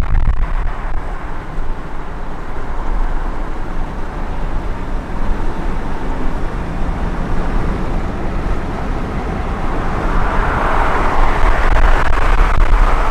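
Nissan 350Z V6 running through a Motordyne exhaust with resonated high-flow catalytic converters while the car is driven. The exhaust note is loud and steady, rising in loudness near the end.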